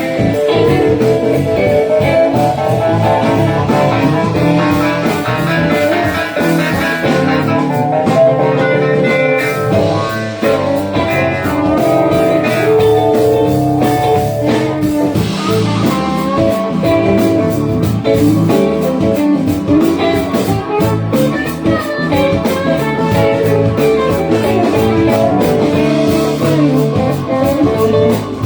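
Live band playing a blues-rock number: guitar over bass and a steady drum beat.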